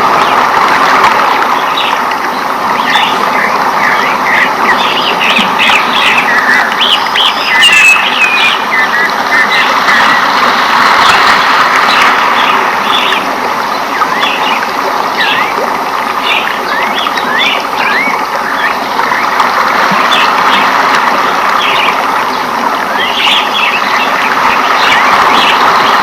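Rainforest ambience: many birds chirping and calling in quick short phrases throughout, over a steady rushing background noise.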